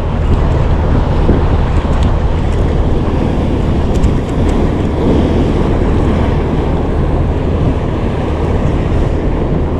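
Wind buffeting the microphone and water washing against a small boat, over a steady low rumble.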